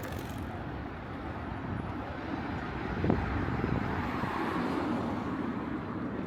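City street ambience with a road vehicle passing, its noise swelling and easing off in the middle, and a single short knock about three seconds in.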